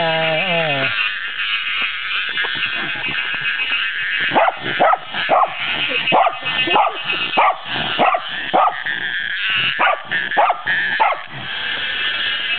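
A cicada buzzing steadily and loudly while a Pembroke Welsh Corgi barks at it again and again in short barks, thickest through the middle. The barking comes from a dog that is wary of, and frightened by, the insect's strange noise.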